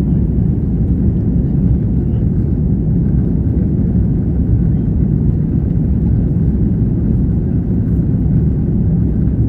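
Airbus A330 jet engines at take-off power, a loud, steady low rumble.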